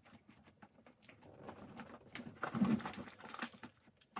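Faint rustling and light clicks of packaging and tape being handled, with a brief low, fuller sound about two and a half seconds in.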